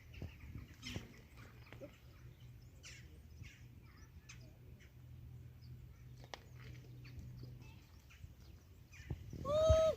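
Birds chirping in short scattered calls over a faint low steady hum, with one loud, short call near the end.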